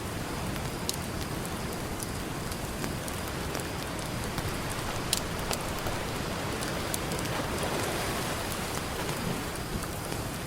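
Campfire crackling with scattered sharp pops over a steady wash of ocean surf.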